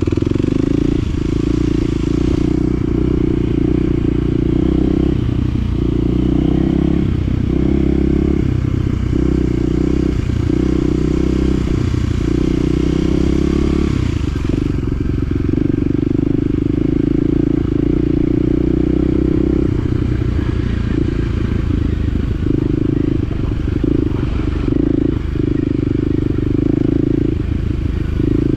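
Side-by-side UTV engine running at low trail speed, its note dipping and rising every second or so as the throttle is worked over rough ground, with some clatter and scraping from the rocky trail.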